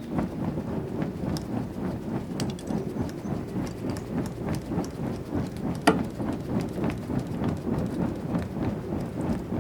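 Garden bonfire crackling, with many small pops and one sharp crack about six seconds in.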